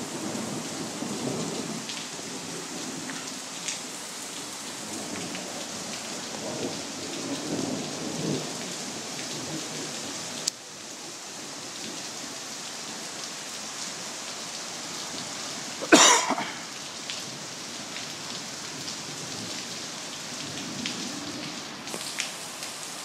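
Heavy rain falling steadily during a thunderstorm, with thunder rumbling through the first half. A sharp, loud thunderclap about sixteen seconds in is the loudest moment.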